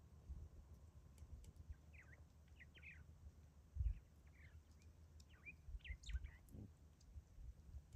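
Faint small-bird chirps: a dozen or so short calls scattered through, over a low rumble, with one brief low thump about four seconds in.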